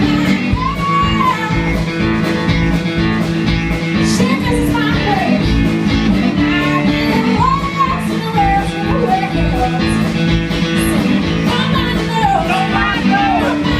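Live blues-rock band playing: an electric guitar lead line with bent notes over a steady bass and drum beat.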